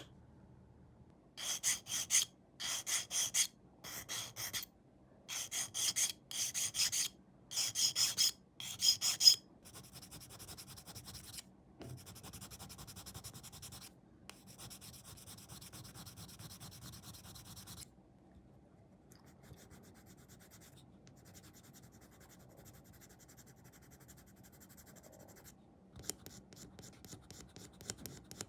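Rubbing, filing-type strokes on a small plastic model-kit part: about nine short, loud back-and-forth strokes, then a quieter, steadier fine scraping that stops about two-thirds of the way in.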